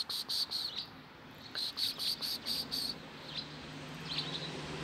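Small birds chirping: fast runs of short, high chirps, about five a second, twice, then scattered single chirps.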